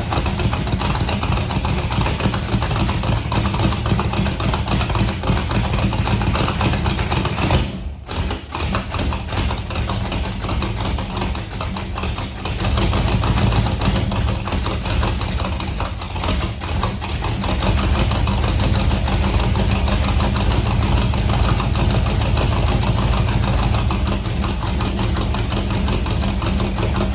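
Chevrolet C3 Corvette V8 idling through Doug's side exhaust pipes during a cold-start warm-up, a steady exhaust note. It drops in level for a few seconds from about eight seconds in, then comes back stronger around thirteen seconds in.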